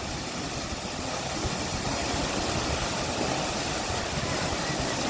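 Steady, unbroken rush of a large waterfall, Jeongbang Falls, its water crashing down.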